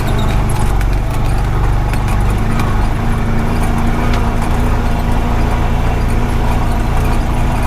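Honda Pioneer 520 side-by-side's engine running steadily as it drives, with scattered light rattles and clicks from the machine over rough ground.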